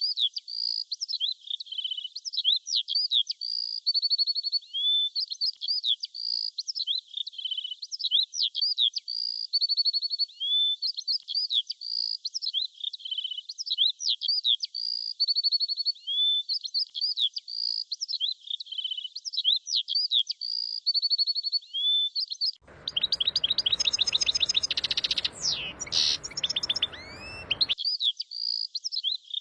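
Small songbirds chirping and tweeting continuously in a rapid, repeating run of short high chirps and trills. For about five seconds near the end a denser flurry of chirps comes with a rushing noise underneath, which cuts off suddenly.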